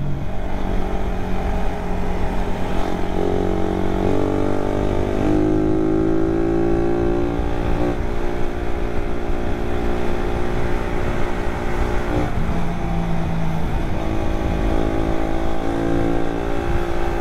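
Suzuki Raider 150 Carb's single-cylinder four-stroke engine under full throttle while riding, its pitch climbing and dropping back several times as it is revved and shifted through the gears. Wind rushes over the microphone underneath.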